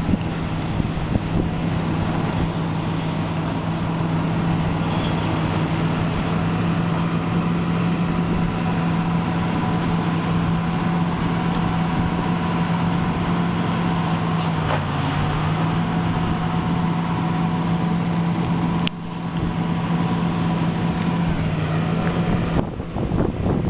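Caterpillar 120H motor grader's diesel engine running steadily while the grader works, its pitch dipping briefly about two-thirds of the way through. A single sharp click comes later, and near the end the steady engine note gives way to rougher noise.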